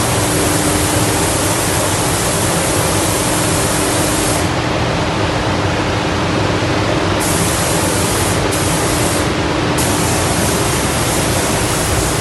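Spray gun hissing in long passes, with the trigger released for a few seconds about four seconds in and briefly twice near the end, over the steady noise and hum of the spray booth's air system.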